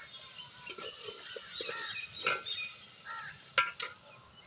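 Birds chirping in the background, with a few sharp clicks, the loudest two close together about three and a half seconds in.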